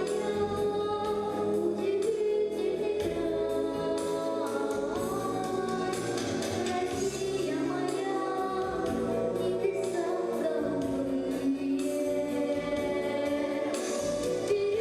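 A children's vocal ensemble singing a song together over a musical accompaniment with a steady beat.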